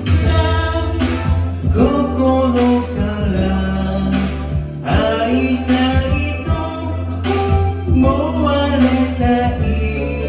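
A pop song playing: a sung vocal line over a band backing.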